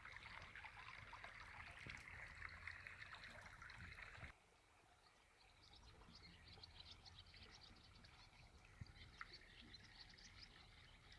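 Faint rushing of a stream, which cuts off abruptly about four seconds in. After the cut, faint birds chirp over a quiet background.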